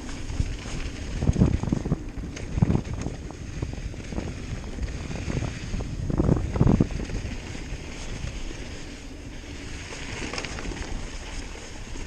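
Wind buffeting the microphone while a hardtail mountain bike rides a rough trail, with heavy low thumps from the bike bumping over the ground, several of them about a second and a half in, near three seconds, and around six to seven seconds.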